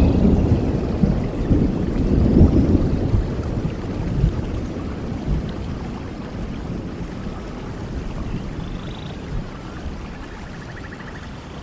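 A low rumble of thunder that swells once more about two seconds in, then slowly dies away over the next few seconds, over steady heavy rain that carries on alone.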